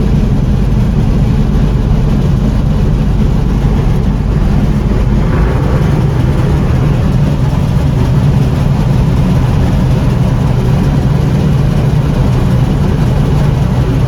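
John Deere 4400 combine running steadily while harvesting corn: its 329 John Deere diesel engine and threshing machinery make a loud, even low hum.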